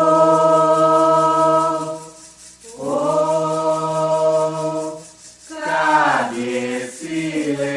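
Voices singing a Candomblé chant to Xangô, unaccompanied, in three long held phrases with short breaths between them. The last phrase glides down in pitch.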